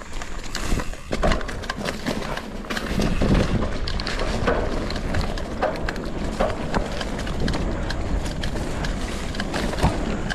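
Mountain bike riding down a dirt trail: a steady rumble of the tyres rolling over the ground, with frequent clattering knocks from the bike over rough ground. It gets louder about a second in as speed picks up.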